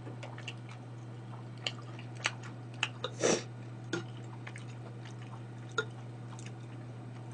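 A person chewing a mouthful of food close to the microphone: scattered wet mouth clicks and smacks, the largest about three seconds in, over a steady low hum.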